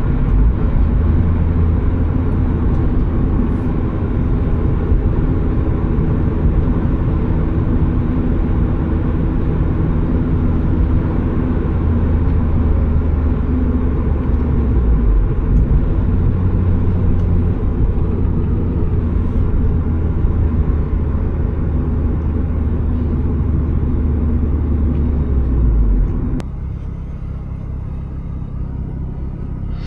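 Turbocharged Mazda Miata's four-cylinder engine and road noise, heard while driving, as a steady drone. Near the end it drops suddenly to a quieter, lower hum.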